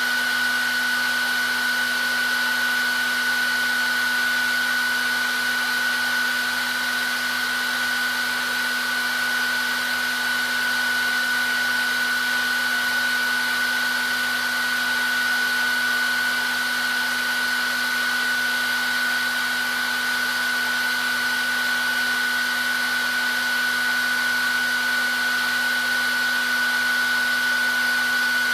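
Handheld hair dryer running continuously: an even rushing of air with a steady high whine from the fan motor and a lower hum beneath, unchanging throughout.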